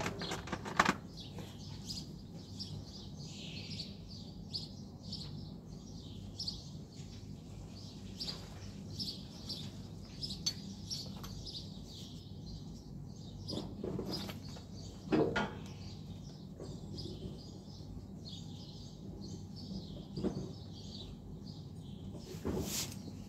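Small birds chirping on and off over a steady low hum, with a few sharp knocks, the loudest about a second in and again around fifteen seconds in.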